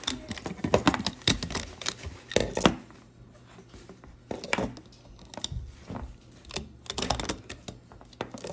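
Irregular small clicks and snaps of rubber loom bands slipping off the plastic pegs of a Rainbow Loom as the finished bracelet is pulled off with a hook, busiest in the first few seconds and again near the end.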